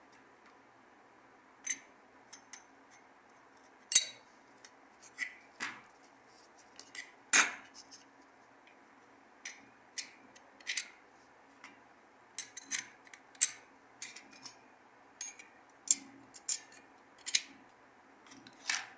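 Scattered sharp metallic clicks and clinks of small clutch parts being handled and fitted by hand during reassembly of a Dafra Zig 50 scooter's clutch.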